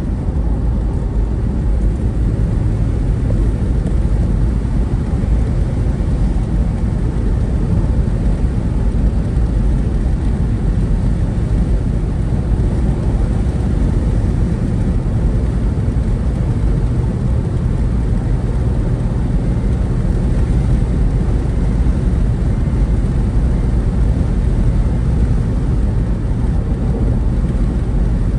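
Steady low rumble of a vehicle driving along a road, even throughout with no distinct events.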